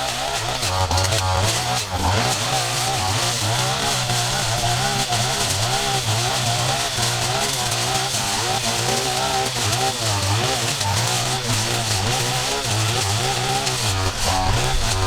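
Small petrol engines of yard-clearing tools running without a break, their revs wavering up and down.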